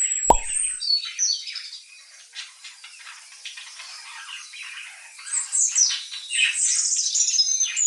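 Birds chirping and warbling in quick, high, chattering calls. The calls are busy at first, thinner for a few seconds, then louder again near the end, with one sharp pop about a third of a second in.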